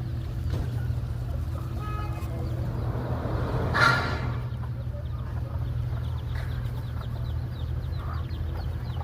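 Domestic chicken family: a rapid run of high, thin peeps from the chicks and clucking from the adults. About four seconds in there is one short, louder burst, and a steady low rumble runs underneath.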